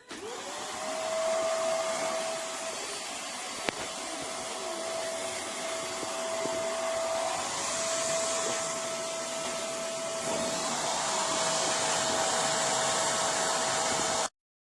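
Vax Mach Air corded upright vacuum cleaner switched on, its motor whine rising to a steady high pitch within the first second. It then runs steadily over a broad rush of air, and stops suddenly near the end.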